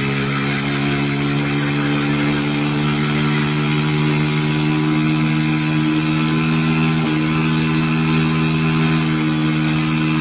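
Vehicle engine running at a steady speed, a constant low drone with road and wind hiss over it.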